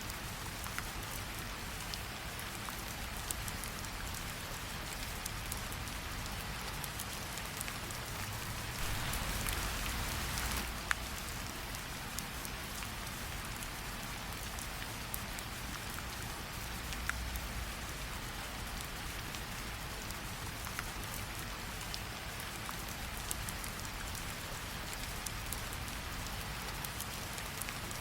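Steady rain falling, mixed with the occasional sharp crackle of a wood fire; the rain grows louder for a couple of seconds about nine seconds in.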